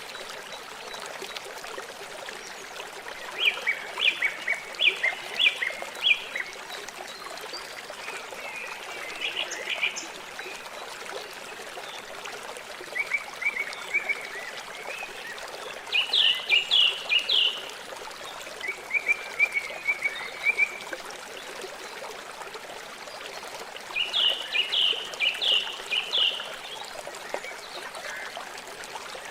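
River water flowing steadily, with a bird singing over it in short phrases of quick, high notes, one every few seconds.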